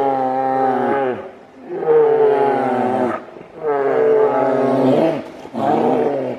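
An animal giving a series of long, drawn-out calls, about four in all, one every second and a half or so, the last one shorter.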